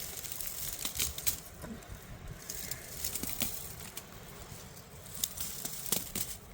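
Rustling with scattered crackles and sharp clicks, a cluster of louder clicks about a second in and again near the end.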